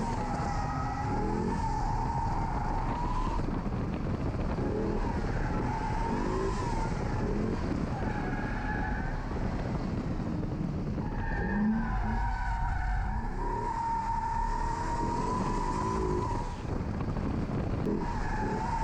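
C6 Corvette's V8 revving up and falling back again and again, under a long, wavering tyre squeal as the car slides through drift corners.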